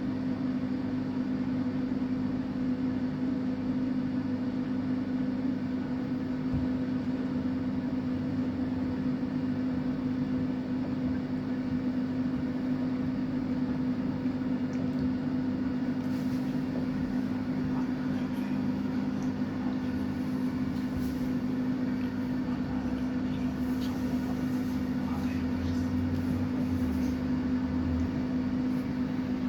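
Samsung WF806U4SAGD front-loading washing machine running an empty 95 °C cotton drum-cleaning cycle, a steady hum.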